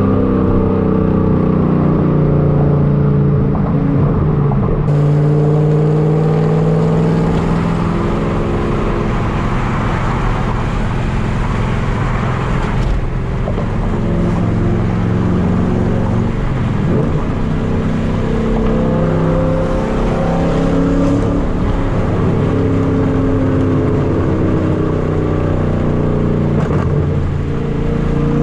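Loud exhaust of a 5th-gen Camaro SS LS3 V8 with long-tube headers and a straight-piped exhaust, heard from inside the car while driving. The engine note holds for a few seconds at a time and then steps up or down several times.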